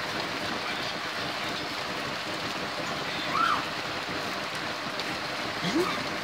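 Steady rain falling in an even hiss. Two brief high cries rise above it, one about halfway through and one near the end.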